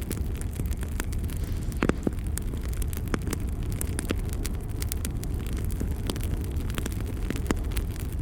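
Campfire burning, with a steady low rushing noise under frequent irregular sharp crackles and pops of burning wood; one louder pop comes about two seconds in.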